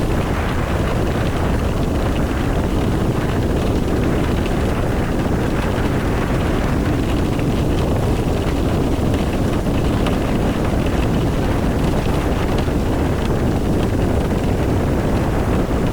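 Car driving in the rain: a steady low rumble of road and tyre noise with a fainter hiss of rain.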